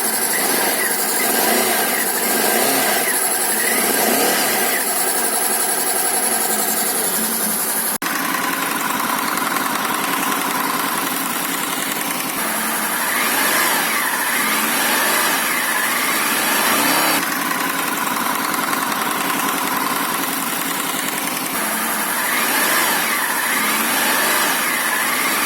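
Honda VFR800 VTEC V4 engine running steadily with new timing chains fitted, its cylinder heads now free of the knock that the stretched cam chains caused. The tone shifts suddenly a few times.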